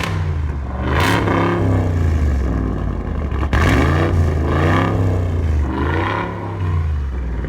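Supercharged 6.2-litre HEMI V8 of the Ram Rebel TRX concept truck idling and being revved three times, each rev rising and falling in pitch before settling back to idle.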